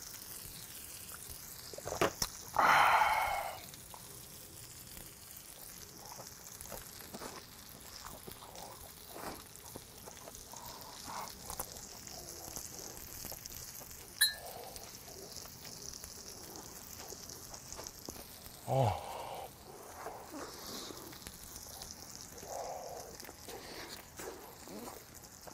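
Soft mouth sounds of a person chewing grilled beef small intestine (gopchang), over a faint steady sizzle from the frying pan. A breathy vocal exclamation comes about three seconds in, and a light clink near the middle.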